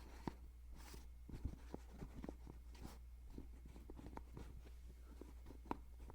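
Faint scattered clicks and light handling noises close to the microphone, over a steady low hum.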